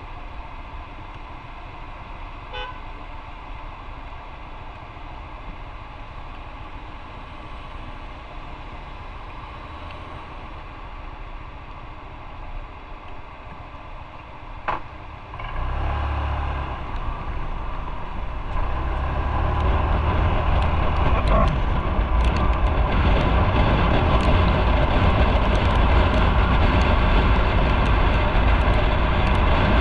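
Motorcycle engine ticking over at a standstill, then, about halfway through, pulling away and getting louder as the bike picks up speed and keeps riding.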